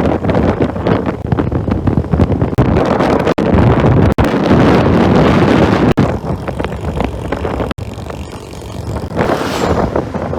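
Riding noise on a 2009 Suzuki Skydrive 125 scooter: wind rushing over the microphone, with engine and road noise beneath. The sound cuts out for an instant a few times.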